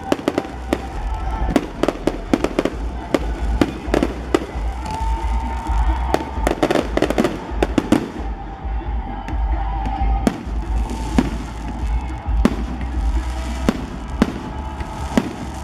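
A long, irregular string of firecracker bangs, several a second, over a steady low rumble.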